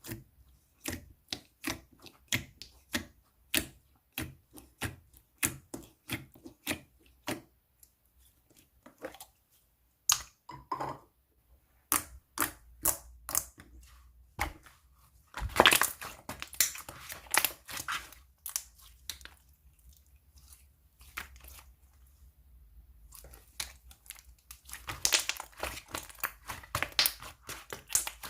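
Slime being poked and pressed by hand: a run of sharp clicks and pops about twice a second, then stretches of dense crackling and squishing.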